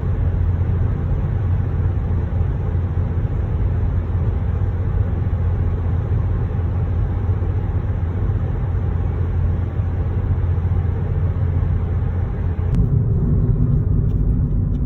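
Steady low rumble of a car driving along a road: engine and tyre noise. About 13 seconds in, the higher hiss drops away suddenly and the low hum changes pitch.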